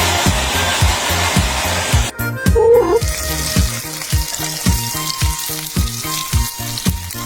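Background music with a steady beat, overlaid for the first two seconds by a loud sizzling hiss of food frying in a pan, which cuts off suddenly.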